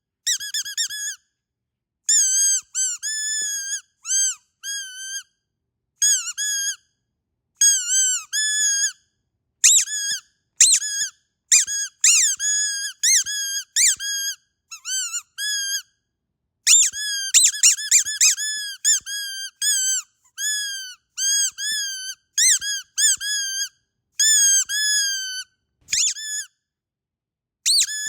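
Squeaky dog toy squeezed over and over: short high squeaks, some single and some in quick runs, each bending slightly in pitch, with brief silent gaps between runs.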